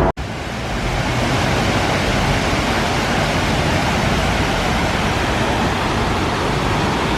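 Steady rush of falling water from the Mirage volcano's lagoon waterfalls, starting right after a brief cut-out.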